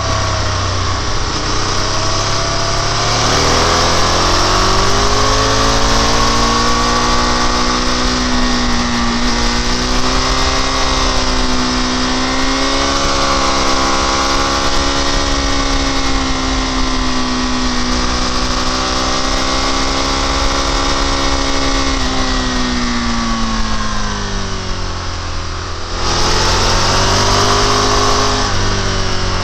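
Motorcycle engine heard from on board while riding, its pitch rising, holding and falling back with the throttle, over steady wind rush. Near the end the sound changes abruptly.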